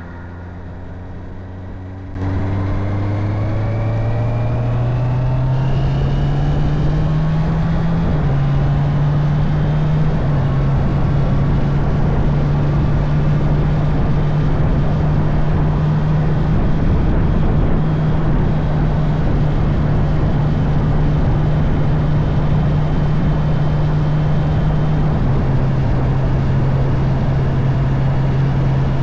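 Honda CB650R's inline-four engine under way: about two seconds in the sound comes up loud, the engine note rises as the bike accelerates, then holds a steady cruise with a few small drops in pitch. Steady wind and road rush runs underneath.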